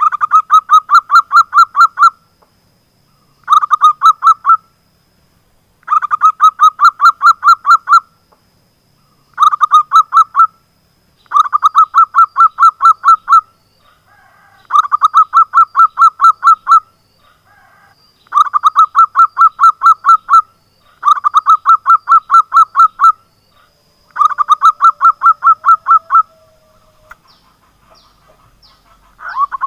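Zebra dove (perkutut) calling in quick bursts of rapid, evenly repeated high notes, about six notes a second, each burst lasting one to two seconds with short pauses between, some ten bursts in all.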